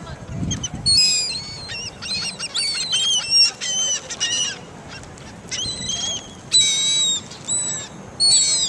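Several gulls calling over and over while being fed: short, high cries in quick clusters, with brief lulls in between.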